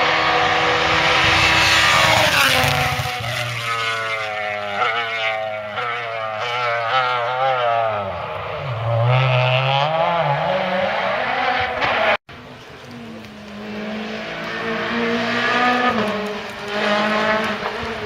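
Rally car engines revving hard and dropping as they shift gears while the cars pass, then a sudden cut about twelve seconds in to another car revving.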